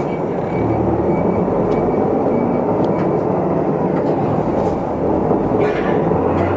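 Isuzu Erga Mio city bus underway, heard from inside the cabin: steady diesel engine and road noise, the engine note rising slowly over the second half.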